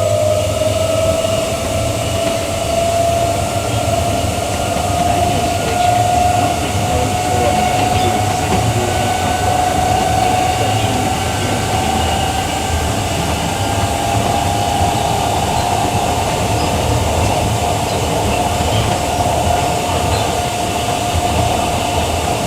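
Queensland Rail EMU electric train running, heard from inside the carriage. A steady motor whine rises slightly in pitch over the first several seconds and then holds level, over a low rolling rumble.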